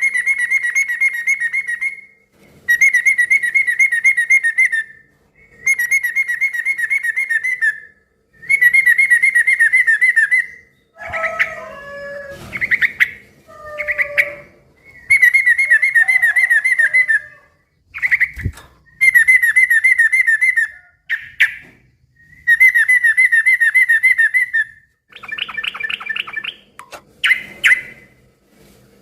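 Yellow-vented bulbul (trucukan) singing a loud, noisy chattering trill in repeated bursts of about two seconds, each followed by a short pause. From about 11 to 14 seconds in, it gives lower, gliding call notes instead of the trills. There is a single thump a little past halfway.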